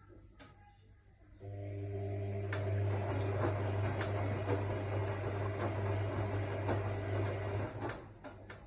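AEG Lavamat L62850L washing machine: a steady electric motor hum starts about a second and a half in and cuts off near the end, with a few sharp clicks along the way.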